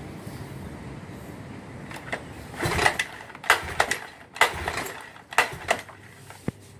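A run of sharp metallic knocks and clanks, about seven in four seconds starting about two seconds in, from parts being handled and fitted on an outboard motor, over a steady low background noise.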